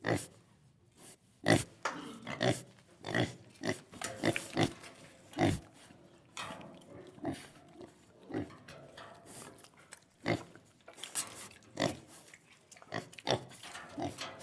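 Domestic pig grunting: a long run of short grunts at irregular intervals, roughly one or two a second.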